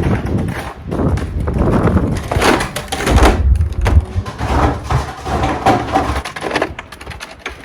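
Strong gusty wind buffeting a phone's microphone: a low rumble that swells and falls away every second or so, with scattered clicks and knocks.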